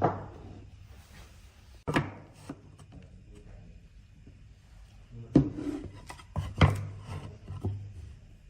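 Wood being handled and worked by hand: a handful of sharp wooden knocks with some rubbing between them, three early on and a cluster of four in the second half, over a faint steady low hum.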